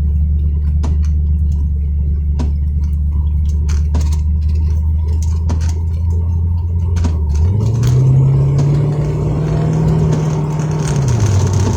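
Car engine heard from inside the cabin, running steadily, then speeding up about seven seconds in and easing off again near the end as the vehicle accelerates. A faint click recurs about every second and a half.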